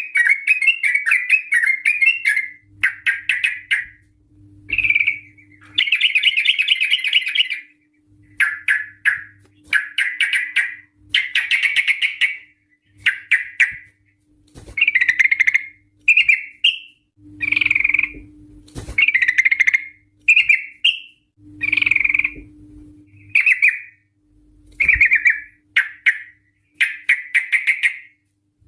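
Yellow-vented bulbul (trucukan) calling: a long run of short, bubbly chattering phrases, each about a second long, repeated over and over with brief pauses between them.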